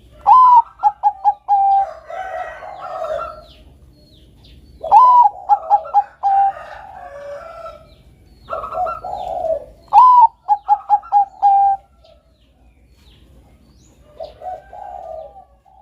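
Zebra dove (Bangkok perkutut) cooing. Three loud song phrases come about five seconds apart, each a high opening note, a quick run of short notes and a held final note. Softer, lower coos sound between the phrases and again near the end.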